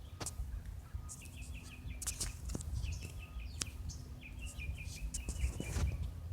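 Small songbirds chirping in quick runs of short, repeated calls, over a steady low rumble and a few faint clicks.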